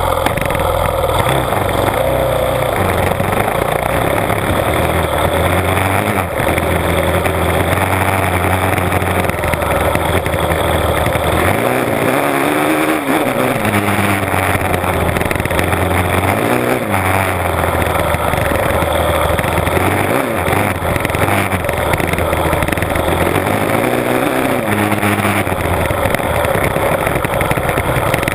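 Honda CRF450R dirt bike's single-cylinder four-stroke engine running under way, revving up and easing off several times as the bike rides along a rough track. A loud, steady rush of wind and track noise runs beneath it.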